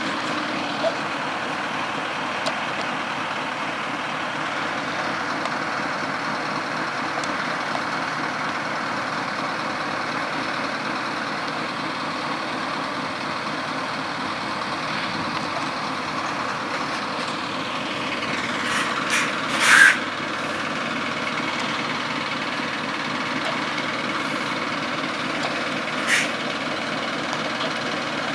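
Steady noise of truck traffic, with a brief loud burst of hiss about two-thirds of the way in and a smaller one near the end.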